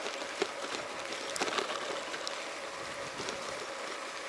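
Rain falling, a steady hiss with scattered sharp taps of drops, a few louder ones about half a second in and around a second and a half.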